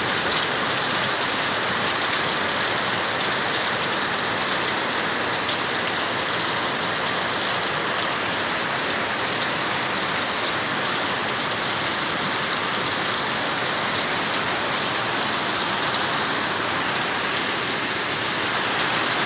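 Steady heavy rain falling and pattering on surfaces, an even hiss with faint scattered drop ticks.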